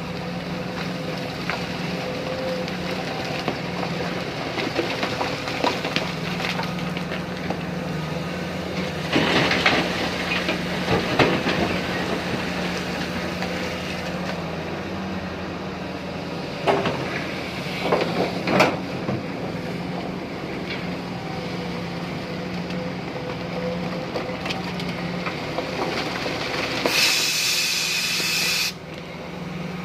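Tata Hitachi Zaxis 870 LCH hydraulic excavator running steadily with a constant hum. There are bursts of clattering twice, and a loud hiss of under two seconds near the end.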